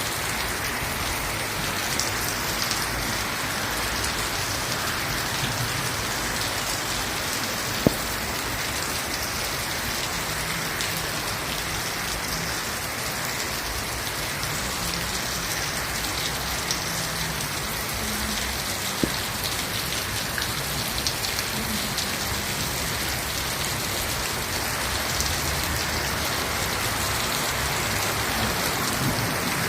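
Steady rain falling and pattering on surfaces, with a few sharper drip taps, the clearest at about 8 and 19 seconds in.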